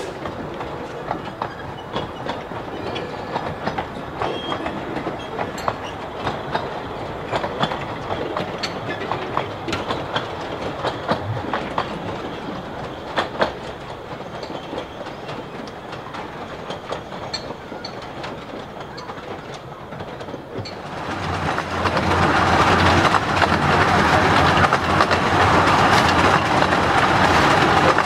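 15-inch gauge miniature railway carriages rolling slowly through points, their wheels clicking over the rail joints. About 21 seconds in, the sound changes abruptly to the loud, steady rumble and rush of riding aboard an open carriage at speed.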